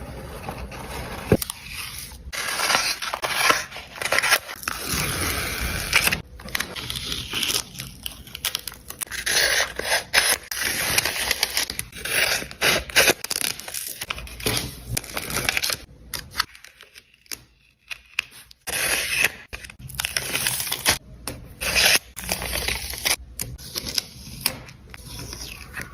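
Close-up paper handling for art journaling: tearing, scraping and crinkling of paper, with many small clicks and taps, and a short lull about two-thirds of the way through.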